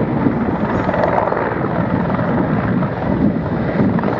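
Mil military helicopters flying a display, their rotors and turbine engines making a loud, steady rumble.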